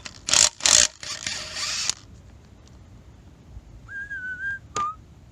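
Three short bursts of a power tool undoing bolts on the front of the engine, the last one lasting about a second. About four seconds in comes a brief wavering, whistle-like squeak, then a click.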